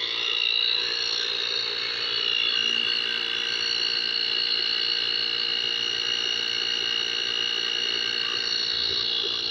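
Portable electric tire inflator running steadily with a high buzzing whine, pumping air into a car tire set to shut off at 40 psi.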